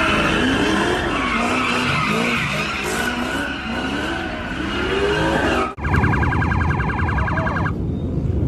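Road vehicle sounds with engine pitch rising and falling. After an abrupt cut about six seconds in, a rapidly pulsing electronic alarm tone plays for about two seconds.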